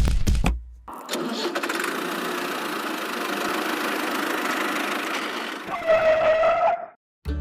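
Small engine chugging with a quick, even knock that cuts off under a second in. A steady rushing noise follows for several seconds, then a short, slightly wavering held tone near the end.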